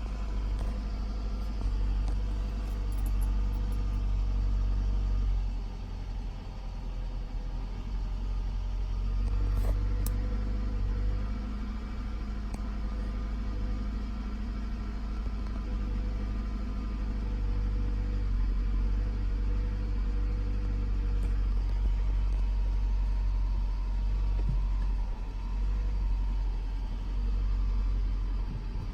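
2006 Toyota Camry engine running at low rpm: a steady low rumble with brief uneven dips. This is the low-rpm misfire the owner cannot solve.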